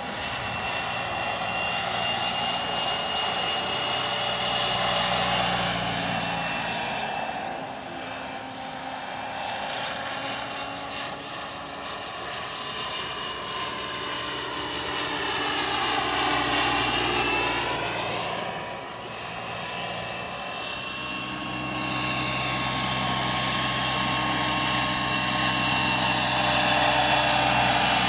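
Radio-control helicopter powered by a Wren 44 miniature gas turbine: a steady high turbine whine over the hum of the rotor. The tones dip and recover in pitch about two-thirds through, and the level rises and falls as the helicopter moves.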